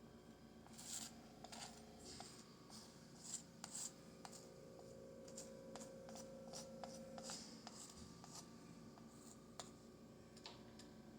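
Faint, irregular scraping and tapping of a palette knife working acrylic paint on a canvas, in short strokes, over a faint steady hum.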